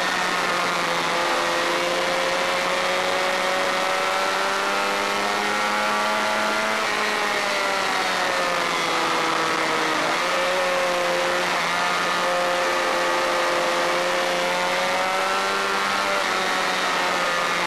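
Honda VFR400 racing motorcycle's V4 engine at full race revs, heard onboard over a steady rushing noise. The engine note climbs, falls back about seven seconds in, climbs again from about ten seconds in and drops once more near the end.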